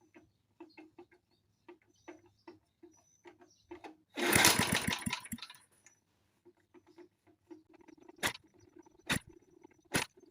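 1972 Briggs & Stratton small engine on a vintage mower being tried on gasoline: a few irregular soft clicks, then a loud brief burst of running about four seconds in that dies away within a couple of seconds, followed by a few sharp separate pops. The engine is not keeping running on gas; later it is judged not to be pulling gas up from the carburetor.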